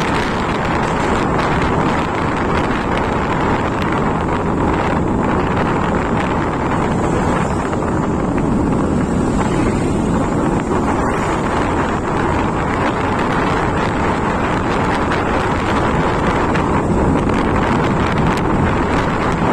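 Steady wind rushing over the microphone of a moving motorcycle, with the ride's road and vehicle noise underneath.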